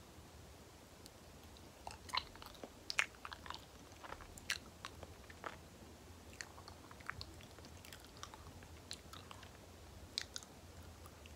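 Close-miked chewing of banana, with soft wet clicks and smacks of the sticky mouth, starting about two seconds in and coming in irregular clusters.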